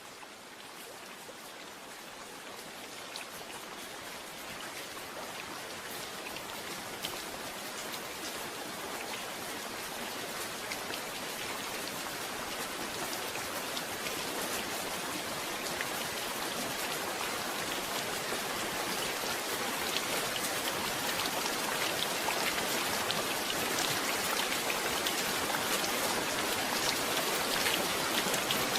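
Steady rain falling, with many small drop patters on a surface, growing gradually louder throughout.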